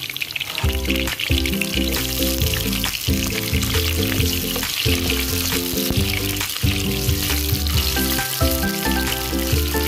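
Green bell pepper pieces sizzling in hot oil in a frying pan, over background music.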